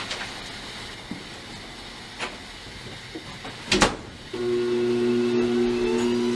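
Grizzly sharpening machine's electric motor switched on with a sharp click nearly four seconds in, then running with a steady hum, after a few light handling clicks.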